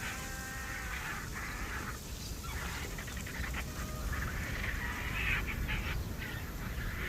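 Animal calls: a run of repeated, harsh pitched cries over a steady low rumble.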